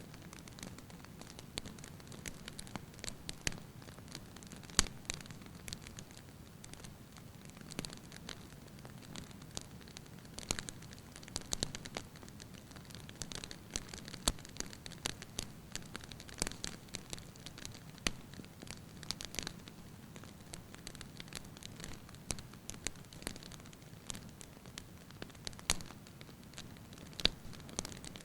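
Wood fire burning in a fireplace: a soft steady rush of flame with irregular sharp crackles and pops from the burning logs, several louder pops standing out.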